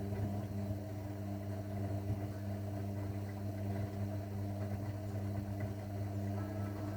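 Zanussi washing machine running with a steady low hum.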